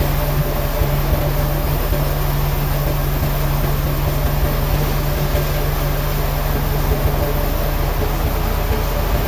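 Woodworking machinery running steadily with a constant low hum and a noisy wash over it.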